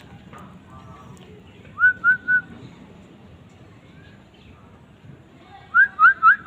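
A caged bird's clear whistled song, each note sweeping upward: three quick notes about two seconds in, then a faster run of five near the end.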